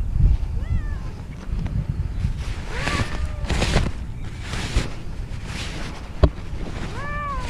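Domestic cat meowing three times, the last two loud, with rustling between the meows and a single sharp knock shortly after 6 seconds.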